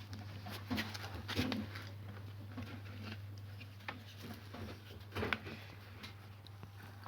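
Washing machine drain pump motor running on a test connection, giving a steady low hum, with a few sharp knocks and clicks from handling. It runs, so the pump works.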